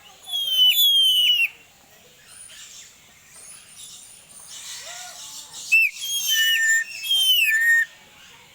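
Bird calling with loud, clear whistled notes in two bouts, each a quick run of short notes that fall in pitch, the first about a second long and the second about two seconds long, starting halfway through; fainter bird calls in between.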